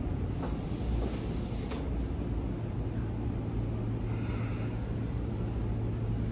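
Steady low hum and rumble inside a Sotetsu 8000-series commuter train car, with no motor whine rising or falling.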